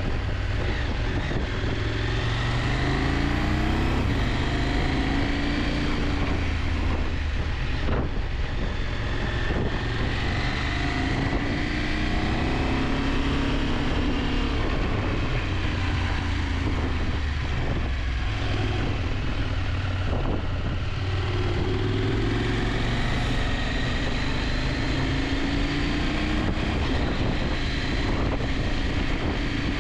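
KTM 890 Adventure's parallel-twin engine running on the move, its pitch rising and falling several times with the throttle, under a steady rush of wind.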